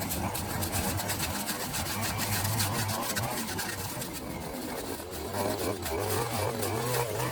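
A small engine running steadily, its pitch wavering slightly, with a rapid ticking over it.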